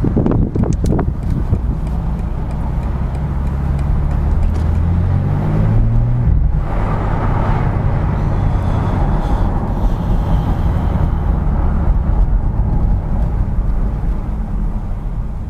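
BMW M4 Competition (G82) with its twin-turbo straight-six, a few sharp clicks in the first second, then the engine pulling with rising pitch for a few seconds before a gear change about six and a half seconds in, after which it runs on steadily with road noise.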